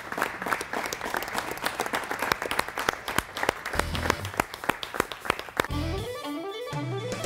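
An audience clapping, with background music of bass and guitar coming in about four seconds in; the clapping stops near the end and the music carries on alone.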